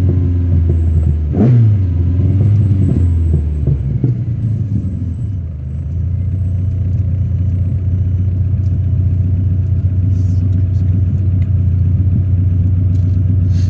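TVR Cerbera 4.5's V8 engine heard from inside the cabin, pulling at low speed with a short rise in revs about a second and a half in, then easing off and settling into a steady idle.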